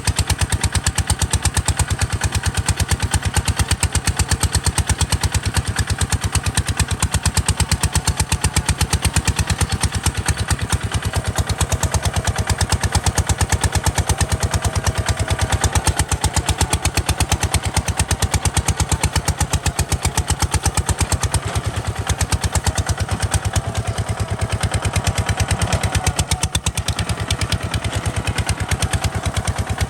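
Kubota RT140 DI single-cylinder diesel engine running steadily, its firing beats coming rapidly and evenly.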